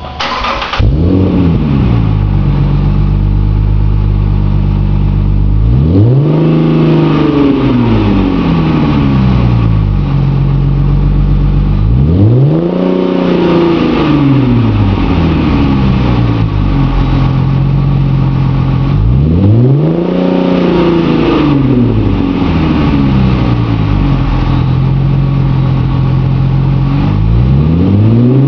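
Dodge Magnum's 3.5-litre V6 through a dual exhaust with glasspacks and Magnaflow resonator-delete mufflers. It starts up about half a second in with a flare that settles to idle. It is then revved up and let fall back about every seven seconds, three times, with a fourth rev beginning at the end.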